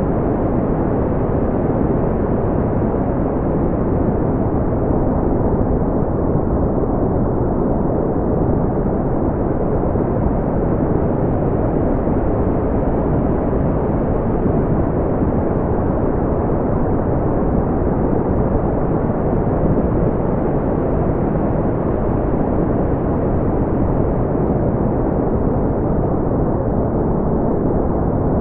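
Generated brown noise: a steady, deep rumbling hiss with most of its weight in the low end, unchanging throughout.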